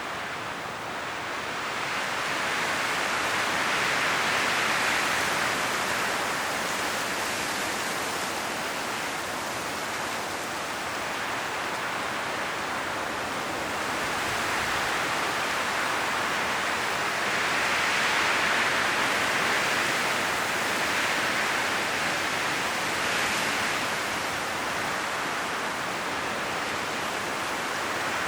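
High wind blowing through autumn forest trees, the leaves rustling in a steady hiss that swells in slow gusts, strongest a few seconds in and again a little past the middle.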